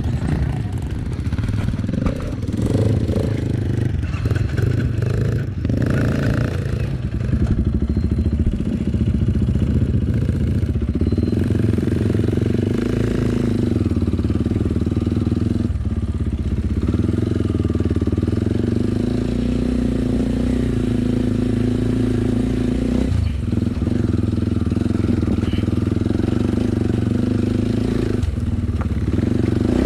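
Off-road motorcycle engine running continuously while riding, its note shifting up and down several times with throttle changes.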